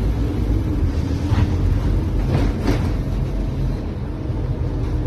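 Scania OmniCity bus's diesel engine running with a steady low rumble, with a few brief rattles about a second and a half and two and a half seconds in.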